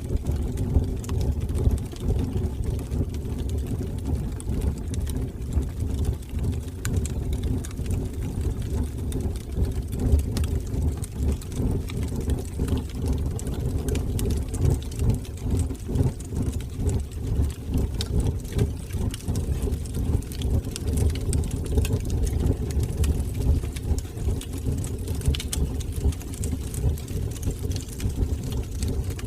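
Wood fire burning in a fireplace: a steady low rumble of the flames with scattered small crackles and pops from the burning wood.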